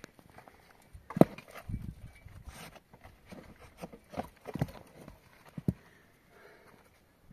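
Irregular knocks and thumps, half a dozen or so spread unevenly, the sharpest a little over a second in.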